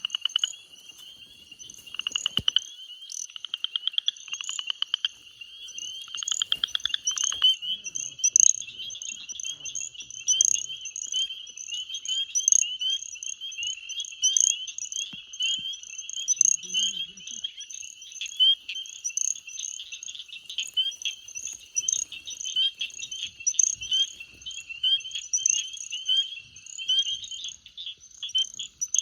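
Chorus of spring peepers: many high, short peeps overlap throughout. In the first few seconds a few rapid pulsed trills from another frog join in.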